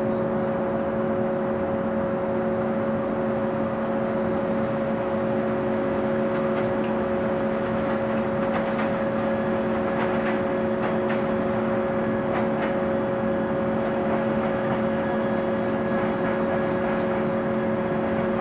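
Steady hum of a stationary JR 475 series electric train's onboard machinery: a few steady tones over an even rushing noise, with faint scattered clicks and knocks in the middle.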